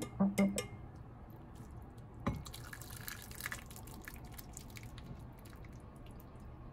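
Tomato broth poured over noodles in a ceramic bowl, the liquid splashing and dripping, with a single knock of a utensil against the bowl about two seconds in.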